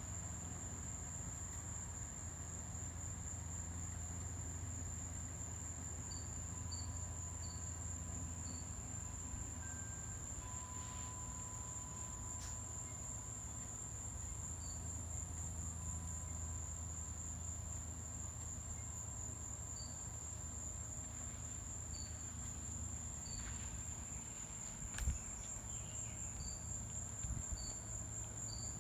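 Insects, crickets or katydids, trilling in a continuous high-pitched chorus, with scattered short high chirps over a low background hum. A single sharp click sounds near the end.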